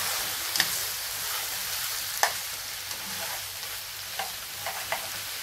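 Chicken pieces sizzling as they fry in oil in a frying pan. A few sharp clicks come through as chopsticks knock against the pan while the pieces are turned; the loudest is a little past two seconds in.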